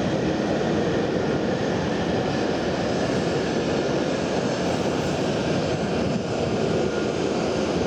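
Shinkansen train running through the station, a steady loud rushing noise of its wheels, motors and air.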